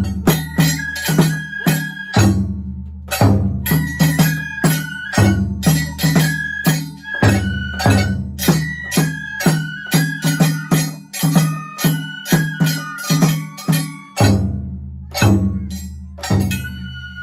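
Japanese festival music (matsuri-bayashi): taiko drums beaten in a brisk, steady rhythm under a high bamboo flute melody, with metallic percussion clanging along.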